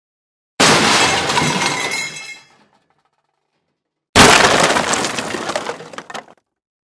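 Dishes smashing twice, a few seconds apart. Each crash is followed by about two seconds of pieces tinkling and scattering.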